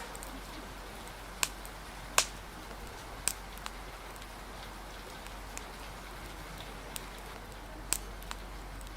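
Steady rain hiss with scattered sharp pops and crackles from a wood fire, about eight irregular pops in nine seconds, the loudest about two seconds in.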